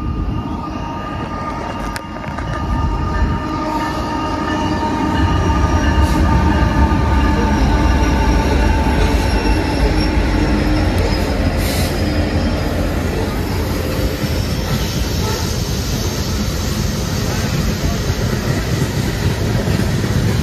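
A train running past on the rails, with steady high-pitched ringing tones over a low rumble that grows louder about five seconds in.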